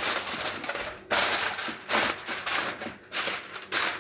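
Aluminium foil crinkling and rustling as it is handled and pressed over a baking dish, in a string of loud crackly rustles about every half second.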